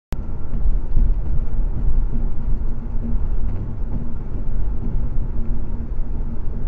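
Steady low rumble of a car driving, road and engine noise as picked up by a dashcam, cutting in abruptly at the start.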